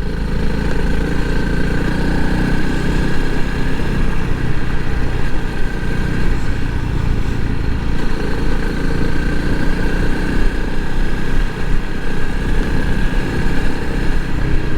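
Honda CRF300L Rally's single-cylinder engine running steadily.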